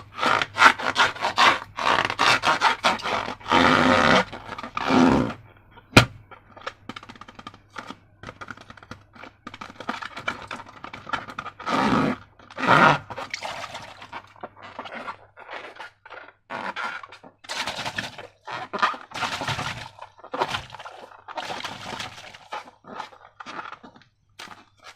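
Rubber balloon and slime being handled: squeaky rubbing and scraping strokes at first, a sharp click about six seconds in, then quieter, irregular sticky squishing and crackling.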